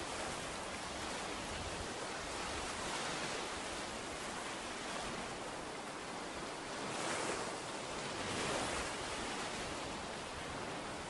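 Ocean surf washing onto a beach: a steady hiss of waves that swells three times as waves break and run up the sand.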